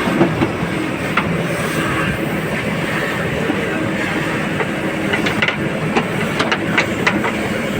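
Heavy diesel engine of working earthmoving machinery running steadily, with a sharp metallic clank about a second in and a cluster of clanks and knocks from about five seconds on.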